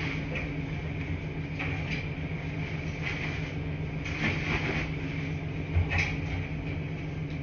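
Washing machines running: a steady low mechanical hum with a few brief swishing surges every second or two and a short thump about three-quarters of the way through.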